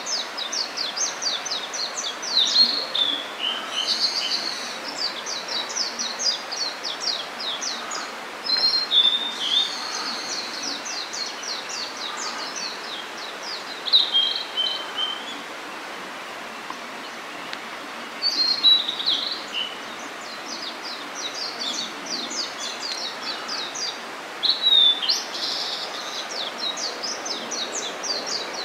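Blue-and-white flycatcher singing: quick, high phrases repeated every few seconds with short pauses between them, over a steady background hiss.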